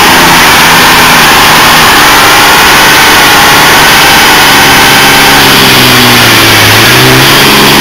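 A car engine held at high revs in a burnout, very loud, over a dense hiss of spinning tyres. The revs hold steady, sag a little after the middle, and climb again near the end.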